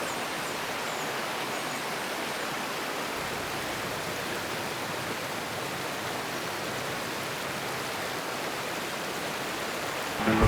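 Steady rushing of a stream, an even hiss of flowing water.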